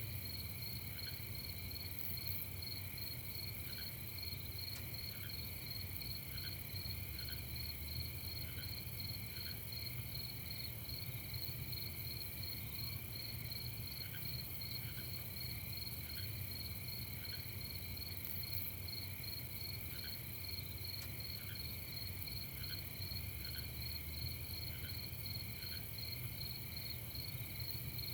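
Night chorus of crickets chirping steadily in fast pulsing trills, with a second, slower call of short chirps repeating irregularly about once a second, over a low rumble.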